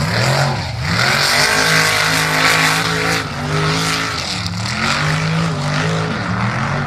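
Mega truck engine revving hard, its pitch swinging up and down several times, with a rushing noise over it.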